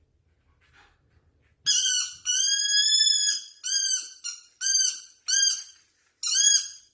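An animal's high-pitched whistling calls, each rising and then falling in pitch. They start about a second and a half in with one short call and one long call, then go on as a string of shorter calls, about two a second.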